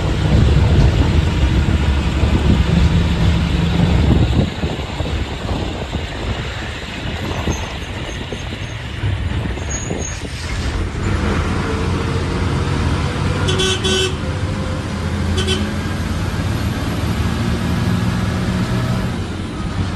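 Road traffic: a vehicle engine rumbling, louder for the first few seconds and steadier after, with horns tooting.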